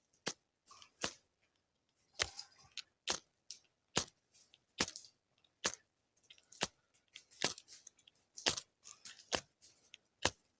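Ferro rod (fire steel) struck again and again with a metal striker to throw sparks onto tinder: about a dozen short, sharp scrapes, roughly one a second.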